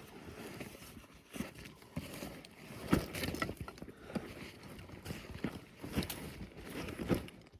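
Irregular scrapes and knocks of a hand tool digging carefully into hard clay around a buried metal-detector target, the sharpest knock about three seconds in.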